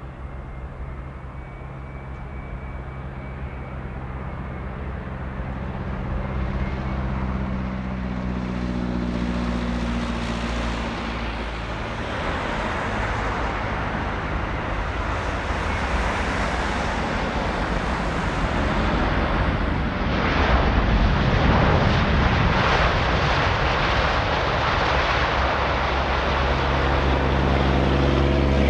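Jet airliner engines passing close. The noise swells to a loud rush, and its pitch drops partway through as the aircraft goes by.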